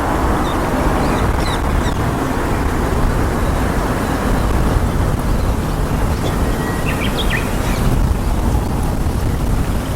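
Steady rushing outdoor background noise, heaviest in the low end, with a few short, high small-bird chirps about a second in and again around seven seconds.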